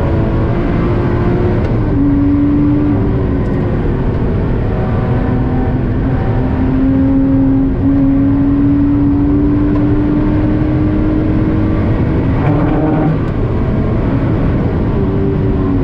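Lotus Exige 350 Sport's supercharged 3.5-litre V6 accelerating hard, heard from inside the cabin over steady road and tyre noise. The engine note drops with an upshift about two seconds in, then climbs slowly for about ten seconds before changing again near the end.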